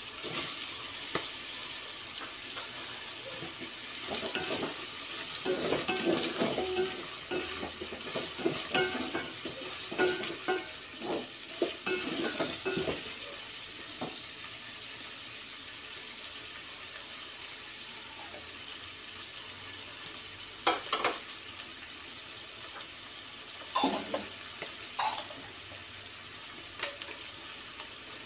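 Food sautéing in an aluminium pot with a steady sizzle while a spatula stirs and scrapes against the pot, in a dense run of scrapes in the first half. A few sharper knocks of the spatula on the pot come later.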